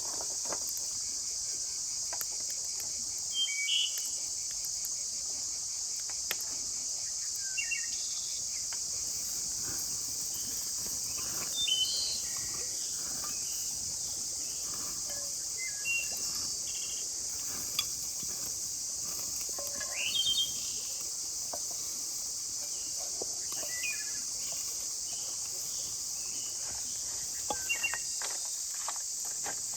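Steady high-pitched insect chorus, with short bird chirps scattered over it every few seconds.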